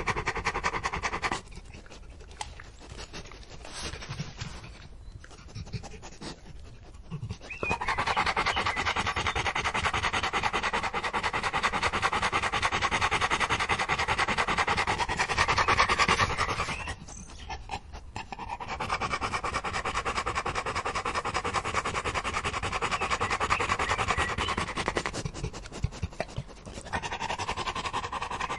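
A dog panting fast and hard, a quick run of breaths in and out. The panting eases off and drops away three times, for several seconds early on and for about two seconds twice later.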